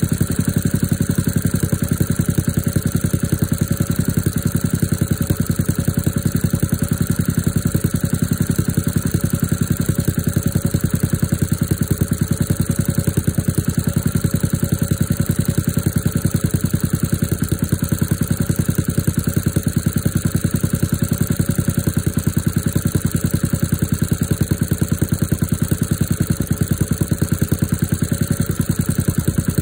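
Diesel engine idling steadily with an even, rapid pulse, warming up shortly after a cold start in freezing weather.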